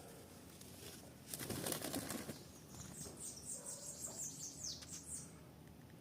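A bird's wings flapping in a brief flurry just over a second in, followed by a run of quick, high chirps.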